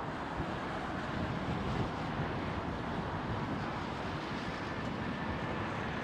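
Strong wind rushing and buffeting over the microphone, with a faint steady whine coming in about four and a half seconds in.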